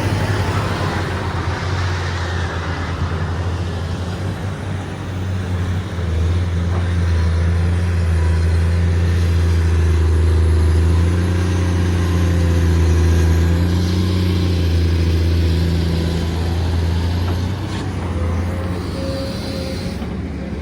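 Excavator's diesel engine running steadily under varying load, with a strong low hum. It grows louder between about six and fourteen seconds in, then eases off.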